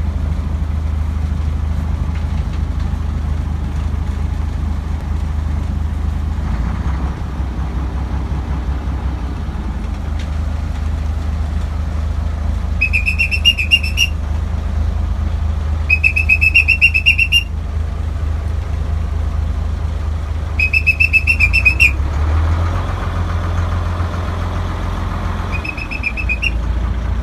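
Houseboat engine running with a steady low hum while the boat is being reversed. Over it, a trilling whistle is blown four times in bursts of one to two seconds, the last one shorter, as signals to other traffic on the waterway.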